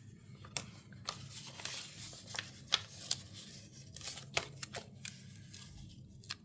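Hands handling paper stickers and a journal page: irregular light clicks, taps and short paper rustles as small stickers are peeled from a sticker book and pressed down, over a faint steady low hum.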